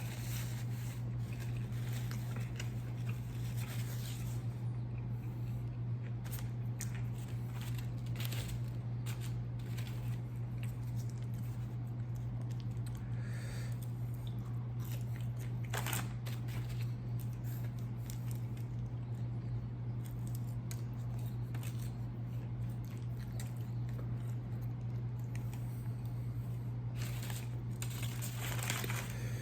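Close-up eating sounds: crunching, biting and chewing of fried food, with scattered clicks and a longer crunchy stretch near the end. A steady low hum runs underneath.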